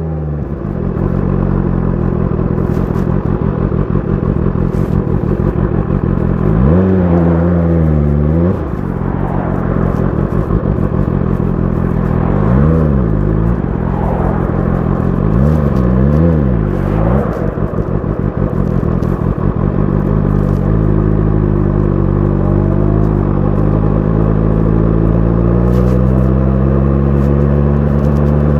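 BMW S1000 RR inline-four engine running through an Akrapovic exhaust while riding. Its pitch swings up and down quickly three times in the first two-thirds, then climbs steadily through the last third as the bike accelerates.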